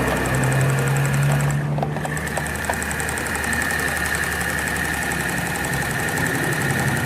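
Small electric motor of a portable sewing machine running steadily, with a high whine over a low hum that shifts about two seconds in. It is running at normal speed again after its armature was cleaned and its carbon brushes replaced.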